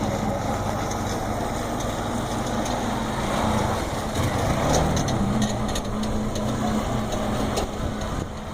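Cargo motor tricycle's small engine running steadily, its pitch shifting a little around the middle.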